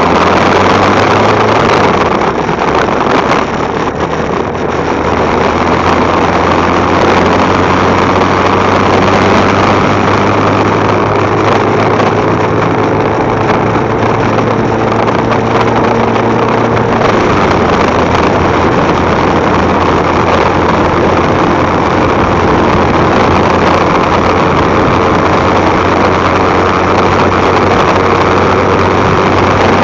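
Motorcycle engine running steadily, picked up by a camera mounted on the bike, with a dense rushing noise over it. The engine's pitch shifts about seventeen seconds in.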